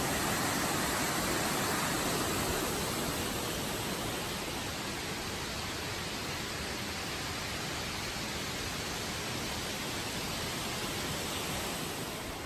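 Steady rushing of falling or running water, an even hiss, easing slightly after a few seconds.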